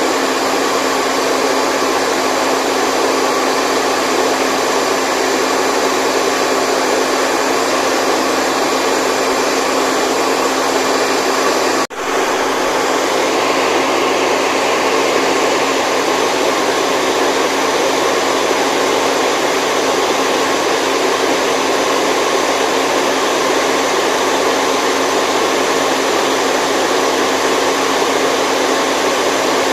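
Steady, loud whooshing white noise with a faint steady hum running through it, broken by one brief dropout about twelve seconds in.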